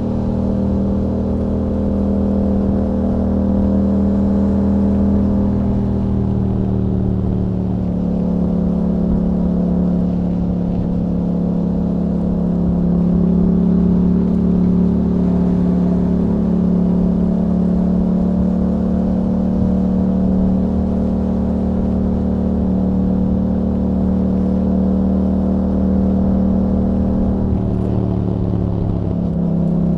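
2021 Yamaha MT-07's 689 cc parallel-twin engine running through an Akrapovic exhaust with a dB killer, holding fairly steady revs that drift gently up and down. Near the end the revs drop and pick up again.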